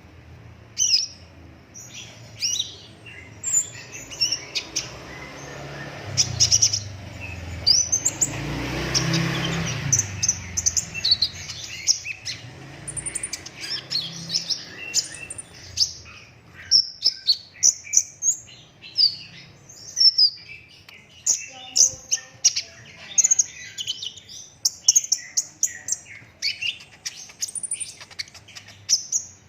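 Sunbird singing nonstop: fast runs of short, high chirps and rolling trills in quick succession. A brief rushing noise swells up and fades about eight seconds in.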